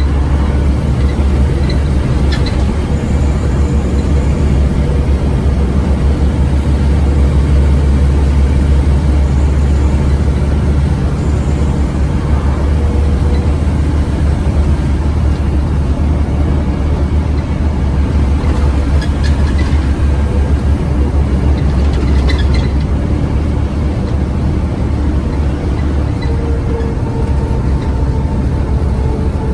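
Scania OmniCity bus's engine running as the bus drives, a steady low drone that swells slightly a few seconds in.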